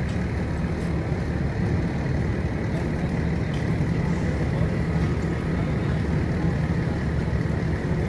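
Fire engine's engine running steadily, a constant low drone.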